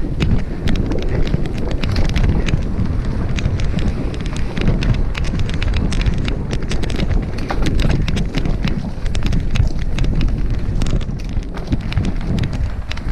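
A mountain bike ridden fast over a dirt trail: wind buffeting the microphone, tyres rolling over the ground, and many quick clicks and rattles from the bike over bumps.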